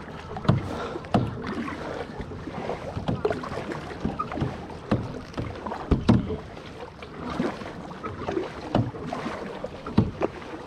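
Kayak paddles dipping into lake water, with splashes and drips in irregular strokes about once a second.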